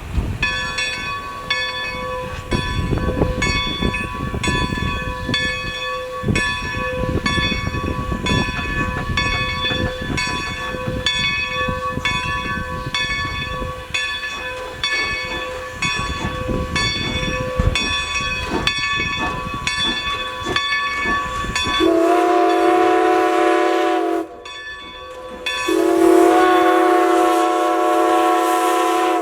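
Steam locomotive bell ringing steadily, a little faster than once a second, over the low rumble of the moving train, on Strasburg Rail Road No. 90, a 2-10-0 Decapod. Then its steam whistle sounds two long blasts.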